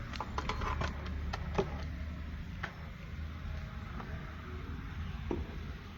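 Scattered light clicks and knocks, several close together in the first second and a few more later, over a steady low hum.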